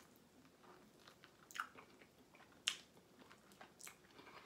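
A person chewing food close to the microphone, faint, with a few short, sharp mouth clicks; the sharpest comes about two-thirds of the way through.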